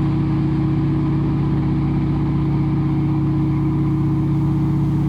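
T6 Harvard's nine-cylinder Pratt & Whitney R-1340 Wasp radial engine and propeller droning steadily under power in flight, heard from inside the cockpit.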